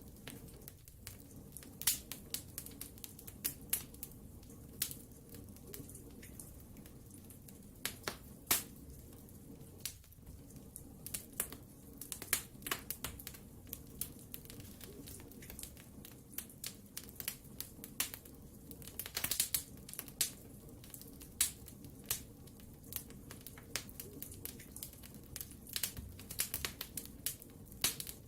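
Wood fire burning in a fireplace, crackling with many irregular sharp pops of varying loudness over a low, steady rush of the flames.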